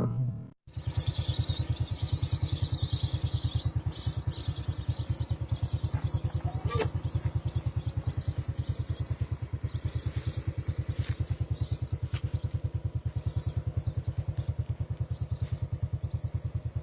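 A small engine running steadily at idle with an even, rapid putt-putt of about eight beats a second. It cuts in suddenly just under a second in.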